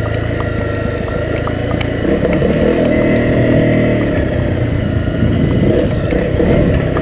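Honda CRF250L's single-cylinder four-stroke engine running under a trail rider's throttle, getting louder about two seconds in as it is opened up. Scattered light ticks are heard over it.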